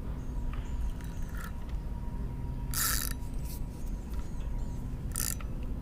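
Fishing reel's drag slipping and paying out line in two short buzzing bursts, about three seconds in and again near the end, as a hooked catfish pulls; the drag is set loose enough that the fish takes line. Under it runs a steady low rumble.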